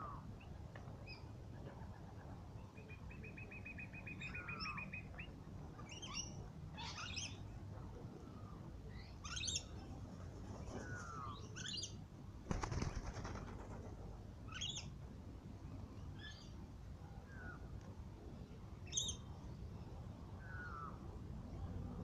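Several wild birds calling with short falling whistles, sharp high chirps and a rapid trill, over a low steady rumble. A brief loud rustling burst, like a flutter of wings, comes about twelve and a half seconds in.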